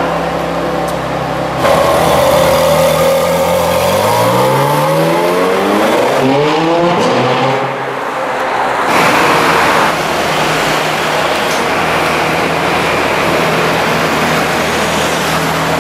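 Ferrari 430 Scuderia's V8 engine running at idle. It steps up in loudness about a second and a half in, then revs up with a rising pitch over several seconds. A loud burst follows about nine seconds in, and the engine then runs steadily as the car moves off in slow traffic.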